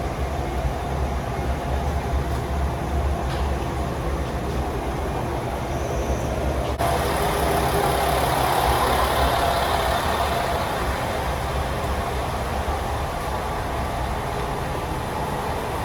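Diesel railcar engine idling, a steady low rumble heard inside the passenger cabin while the train stands at the platform. About seven seconds in, a broader rushing noise suddenly joins it.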